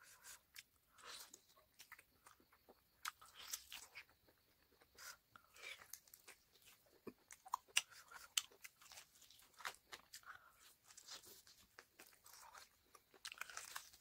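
A person biting and chewing a large piece of cooked pork with skin, eaten by hand: quiet close-up mouth sounds with many irregular sharp clicks.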